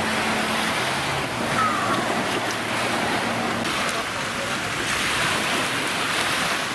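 Jet ski engine running out on the sea, with water rushing and splashing and wind on the microphone.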